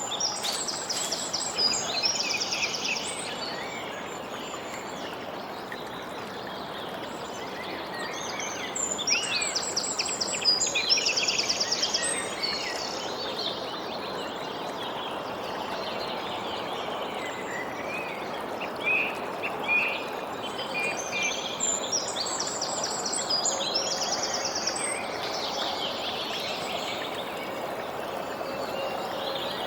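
Songbirds singing in three bouts of quick, high trilled phrases about ten seconds apart, over a steady background hiss.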